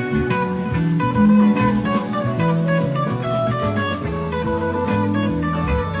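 Live band playing an instrumental passage: a steady stream of held notes over a bass line that moves to a new note every half second or so.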